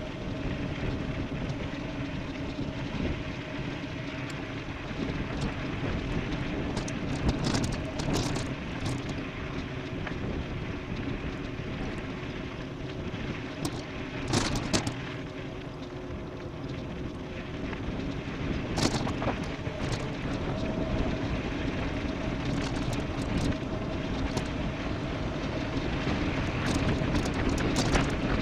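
Steady rush of wind on the microphone and tyre noise from an e-bike riding fast downhill, with a faint steady hum under it and scattered sharp ticks and clicks.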